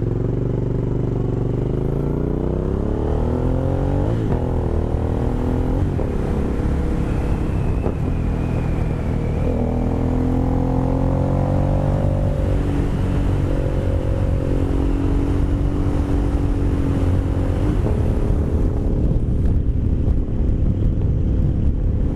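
Aprilia Caponord 1200's 1197 cc V-twin through a GPR Furore carbon slip-on exhaust, pulling hard through the gears: the pitch climbs, drops at shifts about four and six seconds in, climbs again, then holds steady at cruise.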